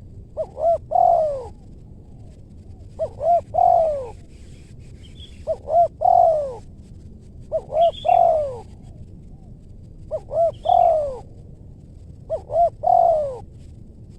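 Spotted dove cooing: six phrases about two and a half seconds apart, each two short notes followed by a longer falling coo.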